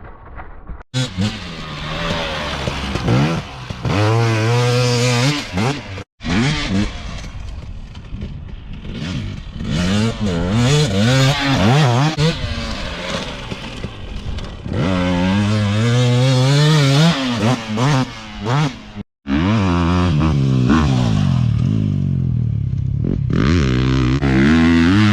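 Dirt bike engine revving and accelerating through the gears, its pitch climbing and dropping again and again. The sound cuts off abruptly three times.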